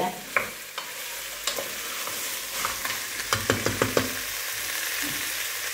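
Boiled chickpeas frying in oil in a stainless steel pot, sizzling steadily while a wooden spoon stirs them. The spoon clicks and knocks against the pot now and then, in a quick cluster about three and a half seconds in.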